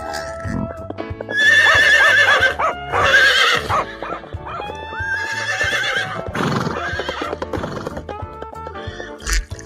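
A horse whinnying twice, a long quavering neigh about a second in and a shorter one around five seconds in, over background music.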